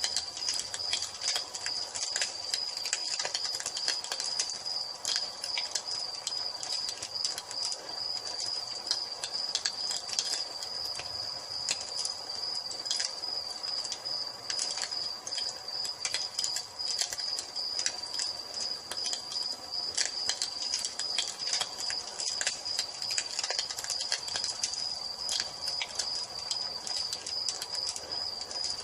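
Wood fire crackling with irregular sharp pops, over a continuous high-pitched trill of crickets.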